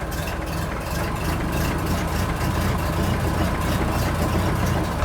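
An engine running steadily with a low rumble and a faint, even pulse.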